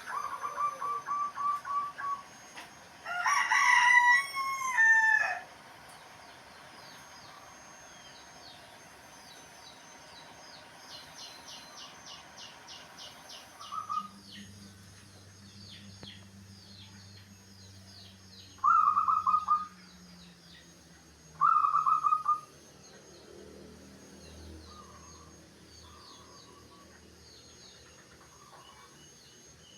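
A rooster crows once, about three seconds in: one loud call that rises and then falls in pitch. Other birds call around it: a fast run of repeated notes at the start, two short loud calls later on, and faint chirping throughout.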